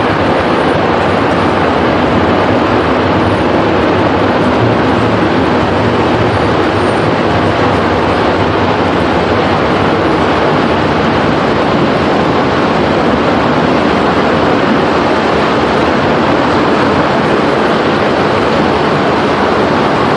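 Violent tornado roaring: a loud, steady, unbroken rumbling roar that does not let up.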